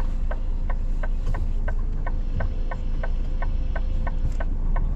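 A truck's turn-signal indicator ticking evenly, about three ticks a second, over the low steady rumble of the idling diesel engine in the cab.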